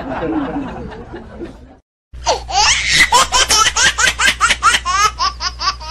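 Loud laughter in a fast run of ha-ha pulses, about three to four a second, starting after a brief cut to silence about two seconds in. Before the cut, fading background chatter.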